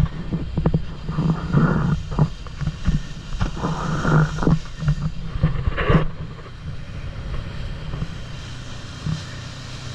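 Boat motor running steadily under way, with irregular surges of wind and water noise that ease off about six seconds in.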